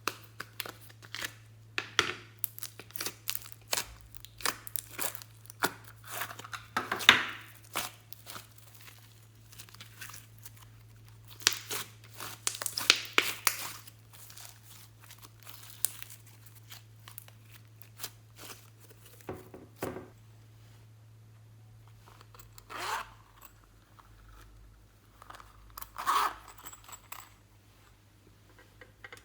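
Hands working materials for slime making: irregular bursts of sharp crackling and tearing, with quiet gaps between, over a steady low hum.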